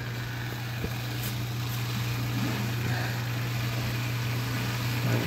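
Drawer dishwasher running a wash cycle: a steady low hum of the pump motor with an even hiss of water spraying inside.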